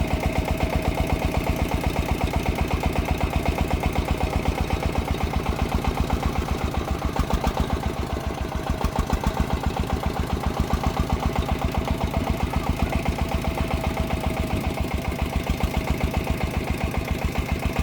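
A công nông agricultural vehicle's single-cylinder diesel engine running with a fast, even chugging beat, easing slightly about eight seconds in.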